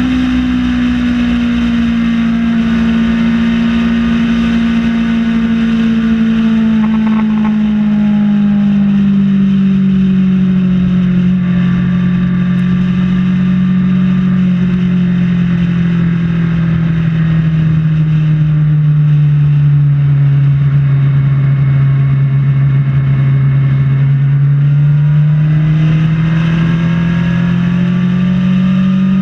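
Kawasaki Ninja ZX-6R inline-four engine running under way, its note sinking slowly as the bike eases off for most of the stretch, then rising again near the end as it speeds up, over steady wind and road noise.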